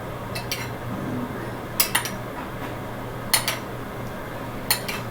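A utensil clinking against a mixing bowl in short double knocks, four pairs about a second and a half apart, while flour goes into the pancake batter.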